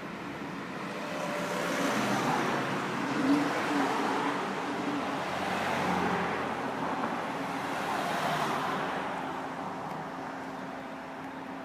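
Lamborghini Gallardo LP560-4 Spyder's V10 engine running amid traffic noise, swelling louder three times before settling to a steady hum near the end.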